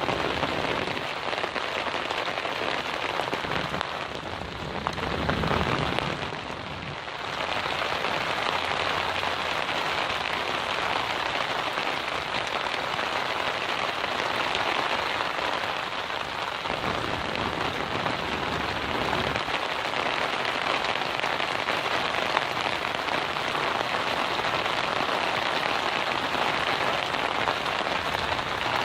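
Rain pouring down steadily, a dense hiss of drops striking surfaces. A low rumble swells briefly about five seconds in.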